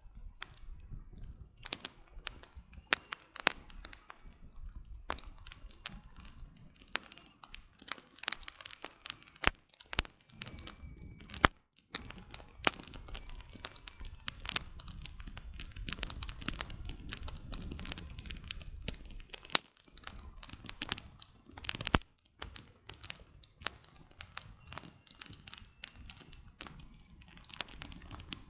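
Campfire burning: firewood crackling with a dense, irregular stream of sharp pops and a few louder snaps, over a low rumble.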